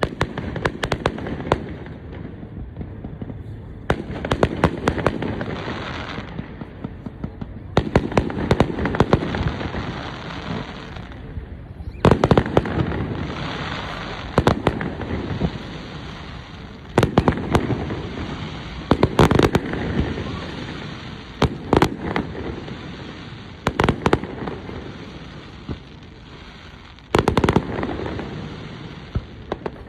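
Aerial fireworks display: volleys of sharp bangs from bursting shells, each followed by a spell of crackle, coming in clusters every few seconds.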